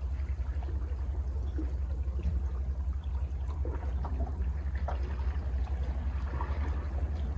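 Calm sea water washing and trickling over rocks below a cliff, with small splashes scattered through it over a steady low rumble.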